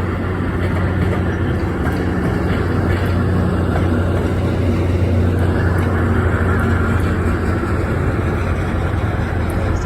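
MARC commuter train rolling into the station, cab car first with the MP36 diesel locomotive at the rear: a steady rumble of wheels on rails over a constant low engine hum. A faint high tone comes in about halfway through.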